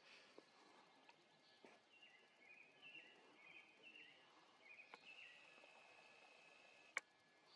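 A bird calling faintly: a run of short chirping notes, then one longer held note. A single sharp click comes near the end.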